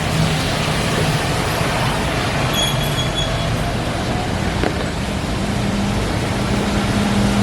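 Steady engine and road noise heard from inside a city bus under way, with a low engine hum that rises in pitch about five seconds in.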